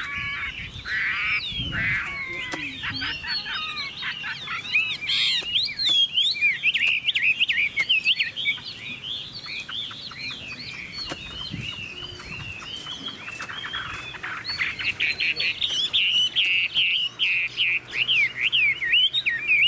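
Chinese hwamei (Garrulax canorus) singing a long, unbroken song of quick rising and falling notes.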